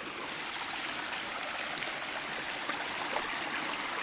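Steady rush of running water from a small waterfall, with a few faint ticks over it.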